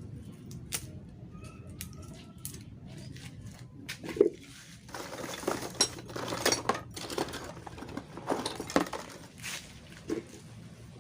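Metal clinking, knocking and scraping as a scrap refrigerator compressor is taken apart to get at its copper windings. Small scattered ticks come first, then a loud knock about four seconds in, followed by a busy run of clinks and scrapes and one more knock near the end.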